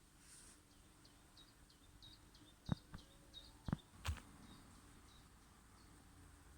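A small songbird gives a run of short, high chirps, about three a second, for several seconds. A few sharp knocks are heard near the middle, and a faint low hum of bees in the flowering acacia runs underneath.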